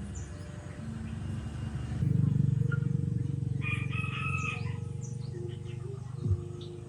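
A pitched, drawn-out animal call lasting about a second, a little past the middle, over a steady low hum that grows louder about two seconds in.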